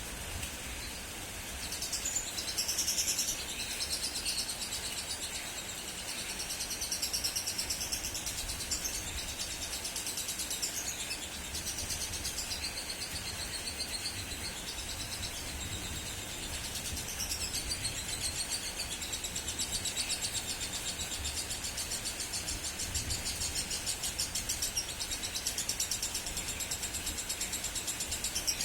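Female lovebird chattering in a long, fast, high-pitched rattling trill that goes on almost without a break: the continuous 'konslet' ngekek song.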